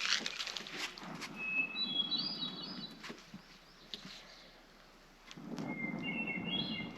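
A songbird singing two short phrases of clear whistled notes that step upward in pitch, one about a second in and one near the end, over a low background rumble with a few scattered clicks.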